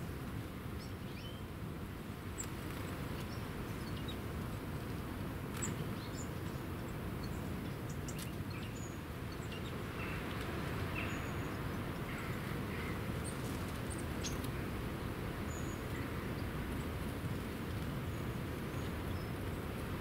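Faint, scattered short bird chirps and tweets over a steady low background rumble.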